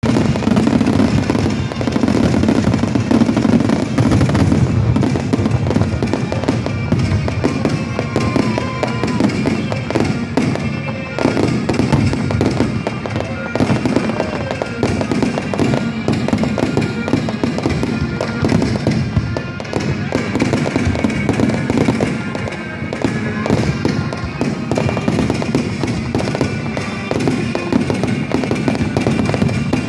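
Fireworks display: a dense, continuous run of bangs and crackles, with music playing along underneath.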